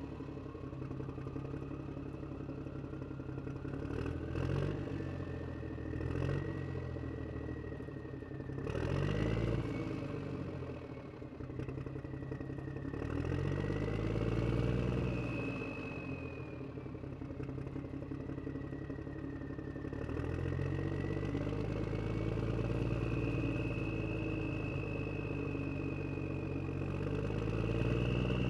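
Motor of a toy JCB backhoe loader running, with a whine that rises and falls in pitch and swells several times as the machine works.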